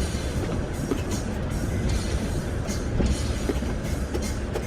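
A 3/4-ton Duramax diesel pickup with a V-plow running: a steady low rumble with scattered knocks and clatter as it works through deep snow.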